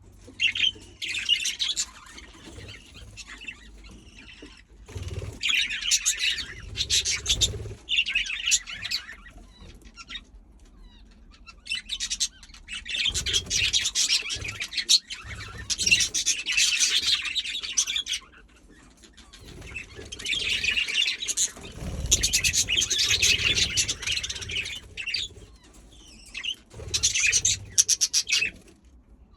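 Budgerigars chattering and warbling in bouts of a few seconds at a time, with quieter pauses between the bouts.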